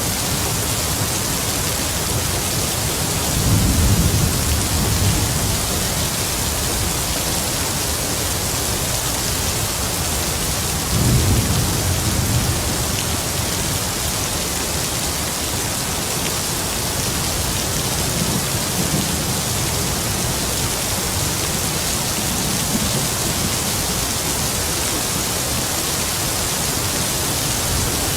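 Heavy rain falling steadily, with distant thunder rumbling low several times: two clear rolls about three seconds in and about eleven seconds in, and fainter ones later.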